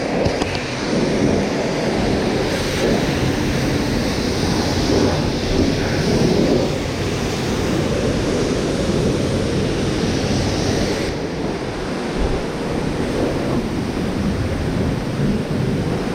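Pressure washer spraying a jet of water against a fiberglass truck camper shell: a steady, loud spray with the pump's low hum underneath. The spray's sound changes about 11 seconds in as the jet moves.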